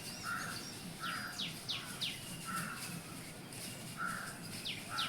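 Small birds, sparrows among them, chirping: quick runs of two or three short notes that fall in pitch, with shorter, lower calls about once a second between them.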